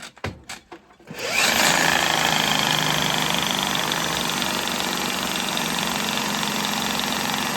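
A drill spinning a Husky drum-style drain snake attachment: after a few clicks it starts about a second in, quickly speeds up, then runs steadily with a high whine while feeding the cable down a clogged drain.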